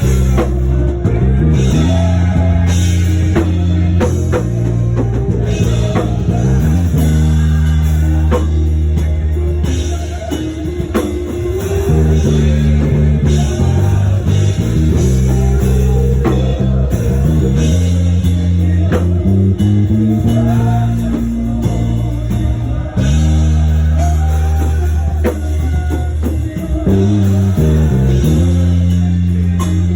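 Live church worship band playing: a prominent bass guitar line moving in stepwise notes over a drum kit and guitar, loud and steady throughout.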